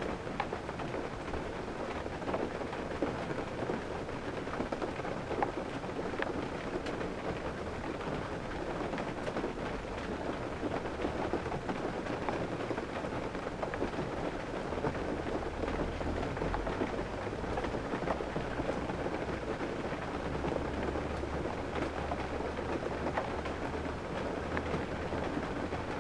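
Steady rain pattering on a car's roof and windshield, heard from inside the cabin as a dense patter of drops. A low rumble comes and goes in the second half.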